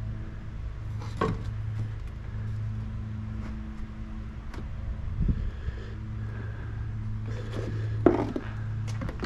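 A few knocks and clatters of wooden pieces being handled during workbench assembly, the loudest about eight seconds in, over a steady low hum.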